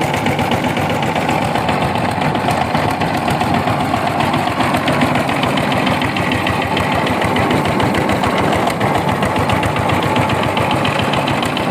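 Diesel engine running steadily with a fast, even knock and no change in speed.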